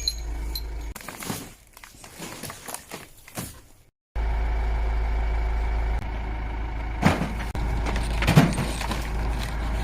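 Truck on the move: a steady low rumble from the engine and road, broken off by an edit about four seconds in and then going on.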